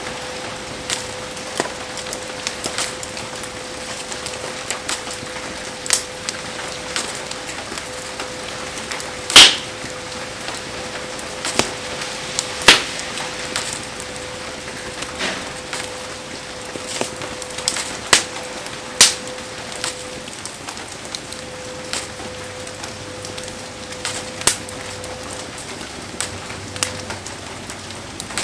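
Heavy rain falling steadily around a wood bonfire, with the fire's sharp cracks and pops scattered through it; the loudest cracks come about 9 and 13 seconds in and twice around 18 to 19 seconds. A faint steady tone runs underneath and fades out near the end.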